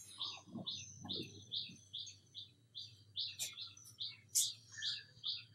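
A bird chirping over and over, short chirps about three a second. Two sharp clicks about a second apart come near the middle, over a faint low hum.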